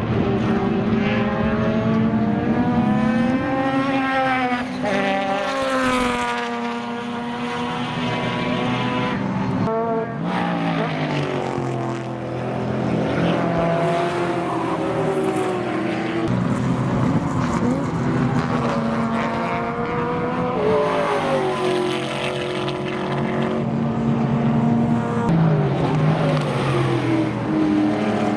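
Several racing sports sedans running at speed, their engine notes rising and falling through gear changes and as cars pass, often more than one engine heard at once.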